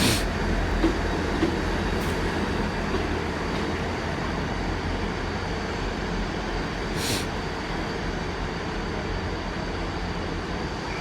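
Diesel train idling at a station platform with a steady low engine hum, and a few short hisses of air.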